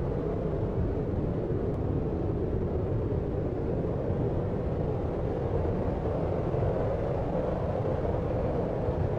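Steady deep noise for sleep, a low-pitched rushing hiss with most of its weight in the low and low-middle range and no change or events.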